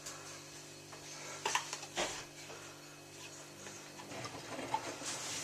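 Miele W3744 washing machine running with a steady low hum, which fades about four seconds in, and two short clinks about one and a half and two seconds in.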